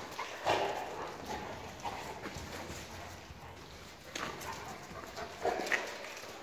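Kangal dogs making a few short sounds, about half a second in and again between four and six seconds in.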